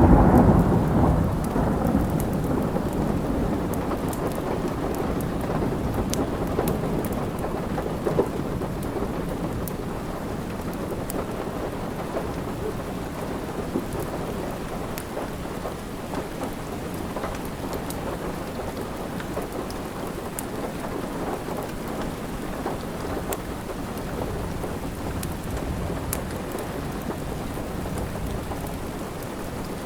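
Steady rain with a clap of thunder right at the start that rumbles away over the first few seconds. Faint scattered crackles from a fireplace sit over the rain.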